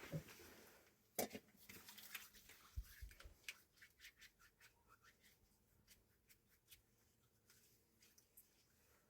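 Faint, scattered clicks, taps and scratches of small objects being handled, most of them in the first few seconds.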